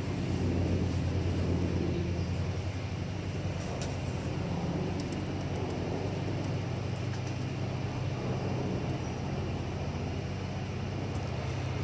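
Steady low outdoor background rumble with an even hiss above it, a few faint clicks.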